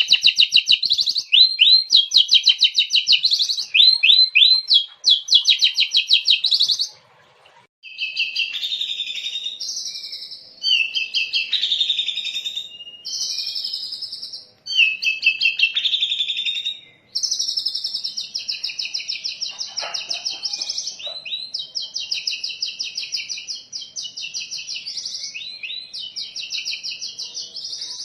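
Oriental magpie-robin (kacer) singing a loud, continuous song of fast repeated trills and chattering notes. The phrases change every second or two, and there are a few short breaks. The song is filled with 'isian' phrases mimicked from other birds.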